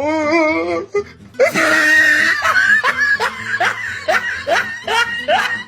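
A person laughing loudly: a wavering laugh at first, then, from about a second and a half in, a run of short rising laughs about twice a second.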